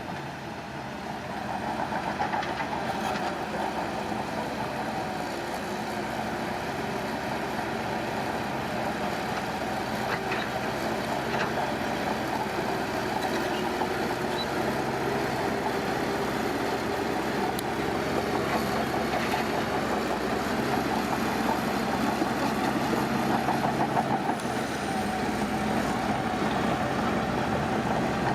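Heavy earthmoving machinery running steadily at a construction site, its engine getting louder about two seconds in.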